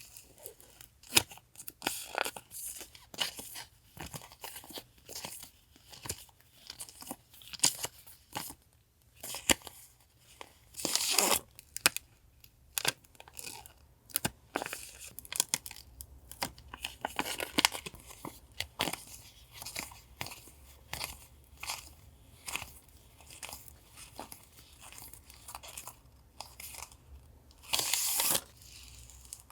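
Close-up handling of paper and plastic stationery packets: crinkling, rustling and small taps throughout, with two longer, louder rasping sounds about eleven seconds in and near the end.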